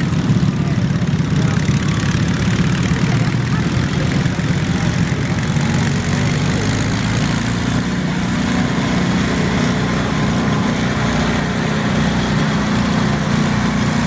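Small garden tractor engine running steadily, its pitch edging slightly higher about halfway through.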